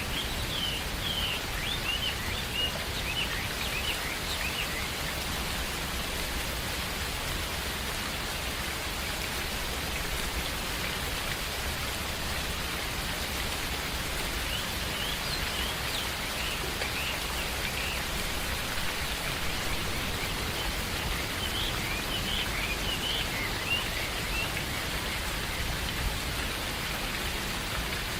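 Steady rain falling, with birds giving short high chirps in three spells: near the start, around the middle, and near the end.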